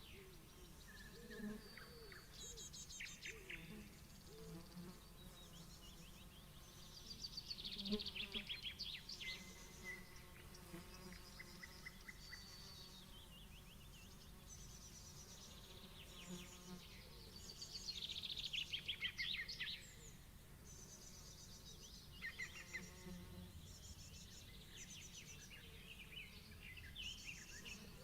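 Summer meadow ambience: flies buzzing under birds singing, with two louder spells of quick bird trills, one about eight seconds in and one about eighteen seconds in.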